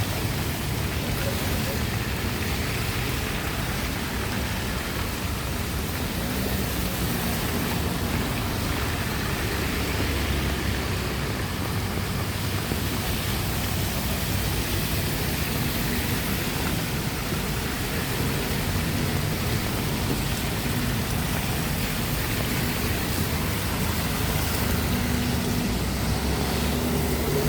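Steady rain falling on a street, an even hiss, with a low rumble of traffic underneath.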